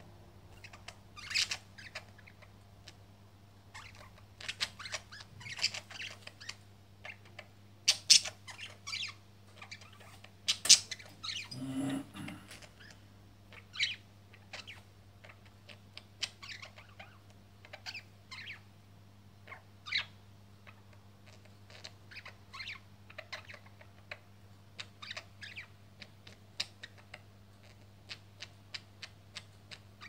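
Caged pet birds chirping and squawking in short, irregular calls, over a faint steady low hum.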